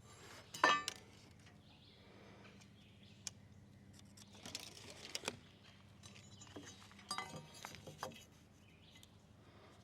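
Scattered light clicks, taps and rustles of handling, a few at a time, over faint background noise.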